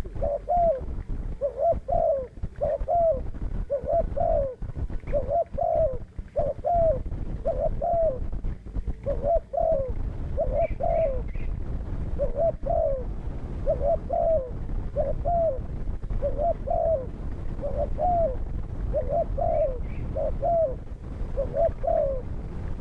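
Spotted dove (terkukur) cooing over and over, short repeated phrases about once a second, over a low rumble. A few faint high chirps from a small bird come in near the middle and again near the end.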